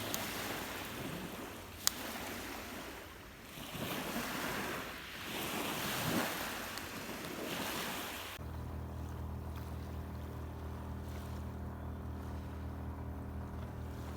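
Rough lake waves washing onto the shore in rising and falling surges, with one sharp click about two seconds in. About eight seconds in, this cuts off suddenly and gives way to a steady low hum.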